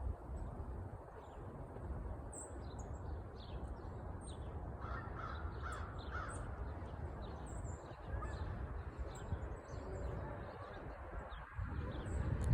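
A flock of birds calling: many short, high calls follow one another throughout, with a few lower, harsher calls about five to six seconds in, over a steady low rumble.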